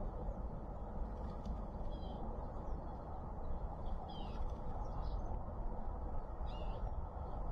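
A few short, high bird chirps scattered through, over a steady low background rumble of outdoor noise.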